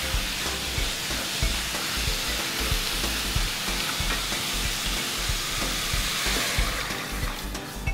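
Vegetables sizzling in hot oil in an aluminium pan as they are stirred with a wooden spatula; dashi stock is poured in, and the sizzling dies away near the end.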